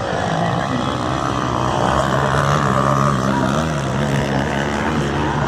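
Motocross bike engines revving, their pitch rising and falling, and growing louder about two to three seconds in.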